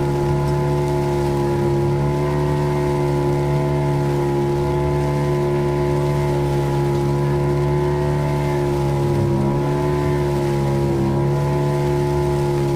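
Small fishing boat's engine running at a steady speed while trolling, a constant drone that dips slightly in pitch about two-thirds of the way through.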